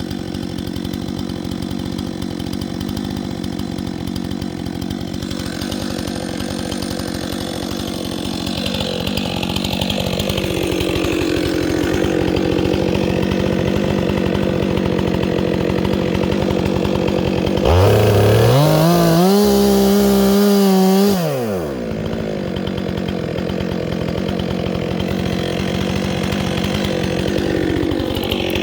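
Chainsaw engine running steadily at high revs. About two-thirds of the way through, a louder, lower engine note swings up, holds for about three seconds, then drops away.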